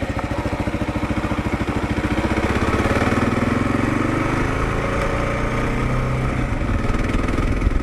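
Kawasaki KLR 650's single-cylinder engine running at low speed with an even thumping beat, then revving up over a couple of seconds and holding at a higher steady pitch.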